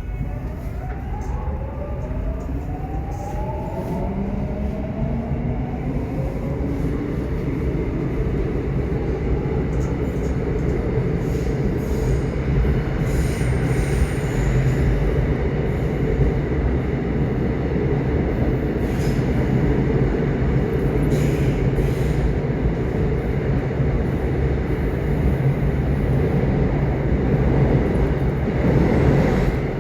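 Subway train running, its motors whining upward in pitch over the first several seconds as it gathers speed, then a steady rumble of wheels on the track that slowly grows louder.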